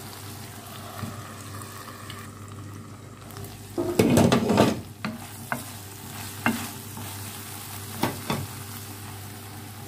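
Mixed vegetables sizzling steadily as they fry in a non-stick pan. About four seconds in, a utensil stirs and scrapes them against the pan in a loud burst, followed by a few single taps on the pan.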